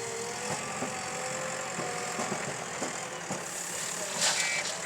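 A backhoe loader's diesel engine running with scattered knocks, and a sharp knock about four seconds in. Right after it, the machine's reversing alarm starts beeping, about two beeps a second.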